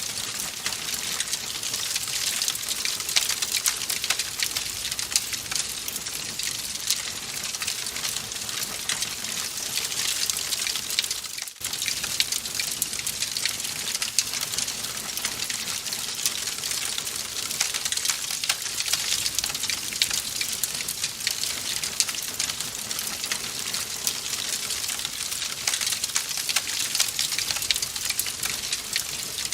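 Wood fire crackling in a fireplace: a dense, steady run of small pops and crackles over a hiss, dipping briefly about eleven seconds in.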